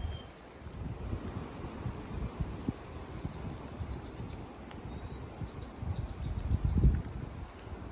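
Small songbirds, chickadees among them, chirping and singing faintly in short high notes, under wind gusting against the microphone in a low rumble that swells near the end.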